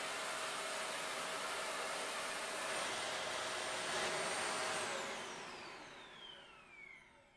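Dyson Ball Animal 2 upright vacuum cleaner running with a steady rushing noise and high whine, then switched off about five seconds in, its motor winding down in a falling whine.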